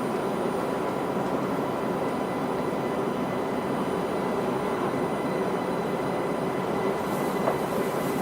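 Interior running sound of a Linimo HSST maglev train car: a steady hum of air and machinery with faint steady whine tones and no wheel or tyre noise, and a single small click near the end.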